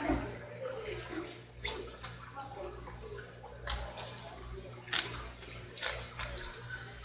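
Running, splashing water as a flounder is rinsed and handled during cleaning, broken by about seven sharp knocks, the loudest about five seconds in.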